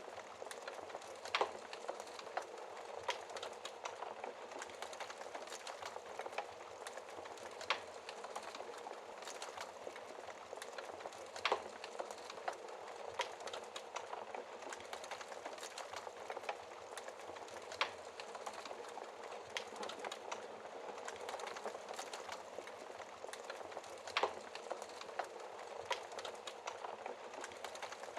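Wood fire burning with a steady soft hiss and frequent crackles, broken by a few louder pops and snaps.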